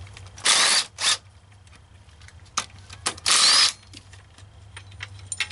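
Power tool spinning out small bolts in two short runs, about a second in and past the middle, with a shorter blip just after the first and scattered metallic clicks of tool and fasteners between.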